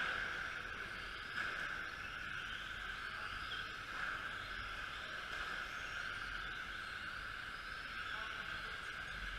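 Several radio-controlled model trucks racing, their motors giving a steady high whine that wavers a little as they circulate.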